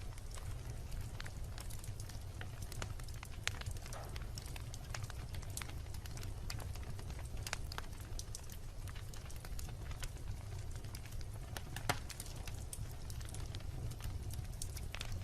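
Wood campfire crackling, with irregular sharp pops and snaps over a steady low rumble; two louder pops come about 3.5 and 12 seconds in.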